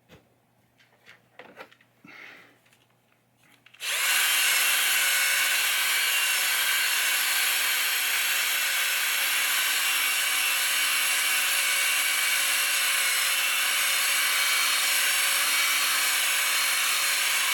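A few light clicks and handling sounds, then a few seconds in a handheld electric power tool starts up. It runs at a steady speed and pitch with a whine, scrubbing polish across a pinball playfield, and stops near the end.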